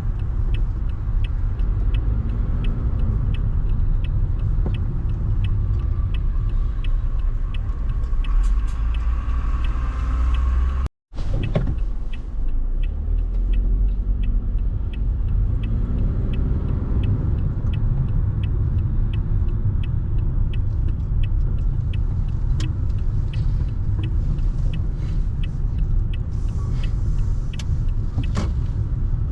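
Car driving, a steady low rumble of road and engine noise with a light, regular ticking about twice a second. The sound cuts out for an instant about eleven seconds in.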